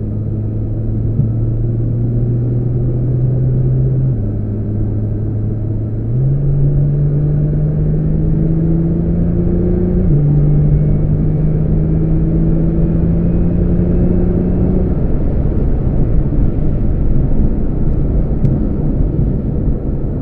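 Car engine heard from inside the cabin under road and tyre noise, its pitch rising as it pulls, with drops at about 4 and 10 seconds that sound like upshifts and a jump up at about 6 seconds. After about 15 seconds the engine tone fades and steady road noise remains.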